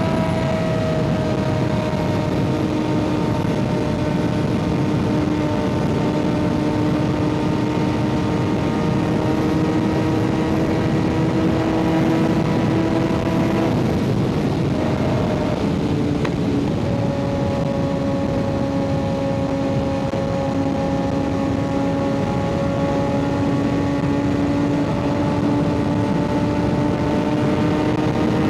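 Kawasaki ZX-6R's inline-four engine with an M4 aftermarket exhaust, running at a steady cruise with wind and road noise. The engine note drifts slowly, breaks off briefly about halfway through and comes back a little lower.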